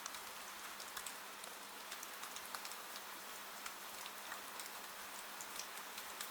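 Steady rain hiss mixed with fireplace crackle: frequent small, sharp pops and ticks over the even rush of the rain.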